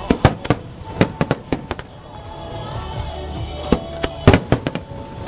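Fireworks exploding in a series of sharp bangs that come in quick clusters, the loudest about four seconds in.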